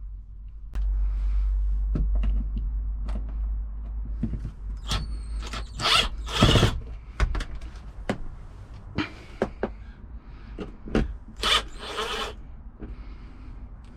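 Clicks, knocks and a few short noisy bursts of tools and parts being handled during installation work, over a steady low rumble.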